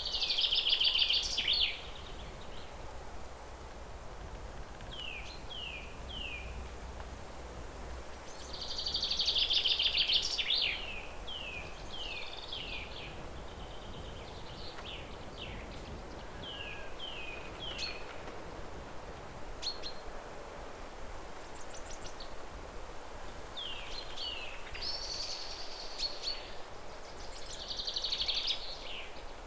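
Songbirds singing: short falling chirps in small groups, with louder buzzy trilled bursts of a second or two at the start, about nine seconds in and twice near the end, over a steady background hiss.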